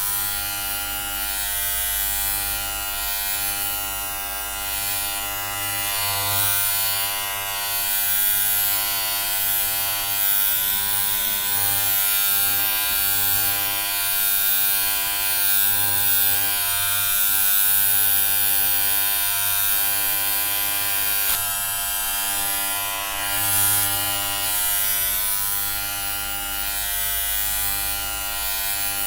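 Electric hair clippers buzzing steadily: a continuous, even buzz with a bright hiss, its loudness wavering only slightly.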